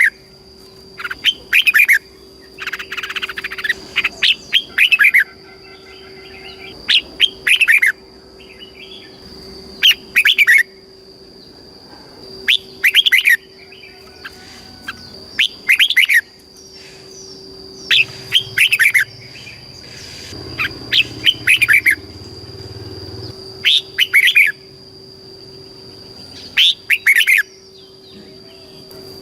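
Red-whiskered bulbul singing: short, loud, fluty phrases of quick falling notes, repeated about every two to three seconds, over a steady high-pitched tone.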